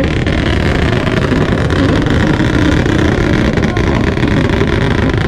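Turbocharged Toyota Supra engine held on a two-step launch limiter: a loud, unbroken stream of rapid exhaust pops and bangs lasting about five seconds.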